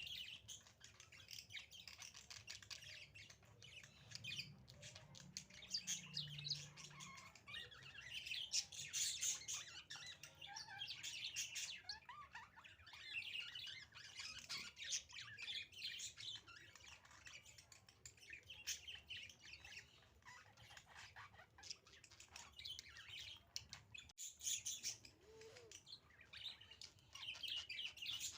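Caged budgerigars chirping and chattering continuously, with rapid overlapping high calls.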